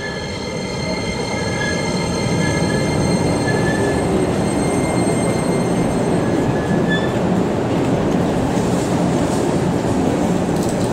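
Electric train running on rails past the platform, a steady rumble of wheels on track that builds over the first couple of seconds and then holds.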